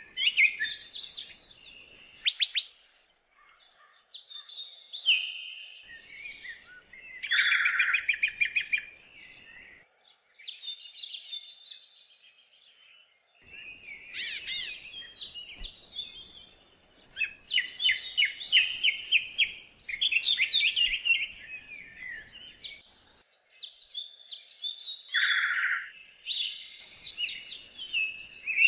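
Birds singing: phrases of quick chirps and rapid trills, with short pauses between phrases.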